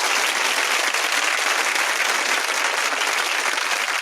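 Canned applause: a crowd clapping and cheering, steady and loud throughout.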